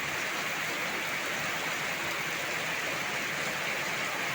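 Heavy tropical downpour: a steady, unbroken hiss of rain.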